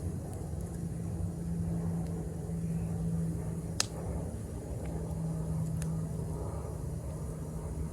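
Wood campfire burning: two sharp crackling pops, about four seconds in and again two seconds later, over a steady low rumble.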